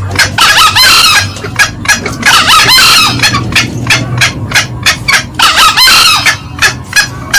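Green junglefowl calls played as a hunting lure: a rapid series of short clucking notes, about four a second, from the hen, broken by three longer cackling or crowing calls about a second in, around three seconds in and near six seconds.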